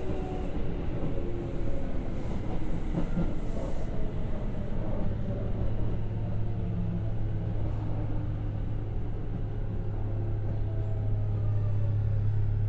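Kintetsu 1021-series electric train running, heard from inside the passenger car: a rumble with a motor whine of several tones falling in pitch as it slows. A steady low hum sets in about five seconds in.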